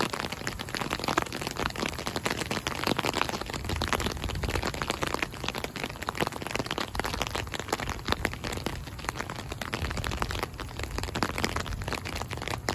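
Rain falling, with a dense, steady scatter of sharp drop clicks close to the microphone over a faint low hum.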